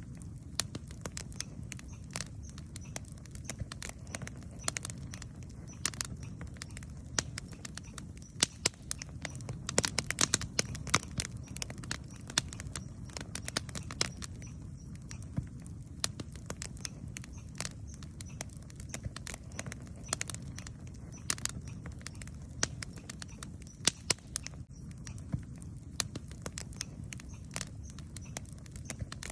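Wood campfire burning, crackling and popping irregularly over a steady low rumble of the flames, with a busier run of pops about a third of the way in.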